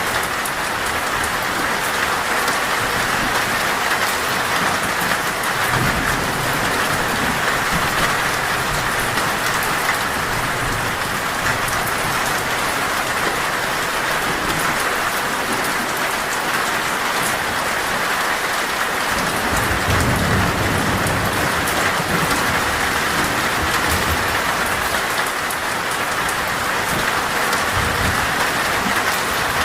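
Heavy rain falling on a metal roof as a steady dense hiss, with low thunder rumbling several times, longest about twenty seconds in.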